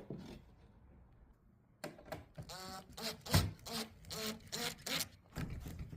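A run of rubbing scrapes and knocks as a piece of material is handled and pressed onto a workpiece edge, starting about two seconds in, with a brief squeak about halfway through.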